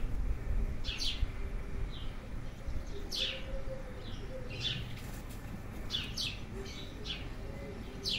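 Small birds chirping: short, downward-sliding chirps at irregular intervals of about a second, over a low background rumble.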